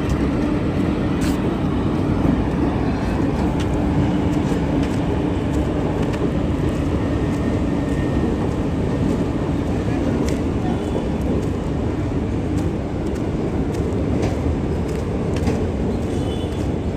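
Passenger train running along the track: a steady rumble with a held hum and scattered sharp clicks.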